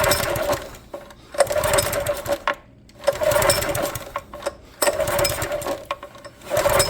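Small generator engine being cranked over and over with its pull-cord recoil starter, a whirring pull about every one and a half seconds, without firing. The owner suspects the engine has too little compression.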